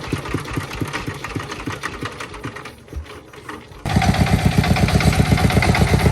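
Single-cylinder diesel engine of a công nông farm vehicle chugging in a steady rhythm of about six beats a second. It fades for a moment, then comes back loud all at once a little under four seconds in.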